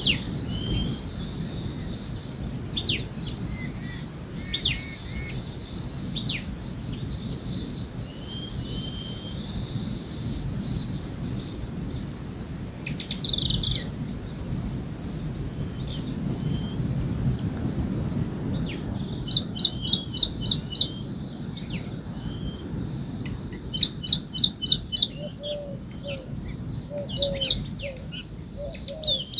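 Birds chirping and calling, with a steady low rumble underneath. In the second half one bird repeats a quick run of about six sharp notes three times.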